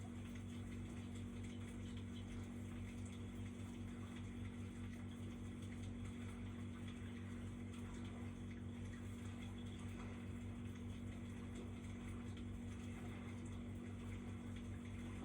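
Faint crackling of a recorded campfire played from a Pomodoro-timer video, steady throughout over a constant low electrical hum.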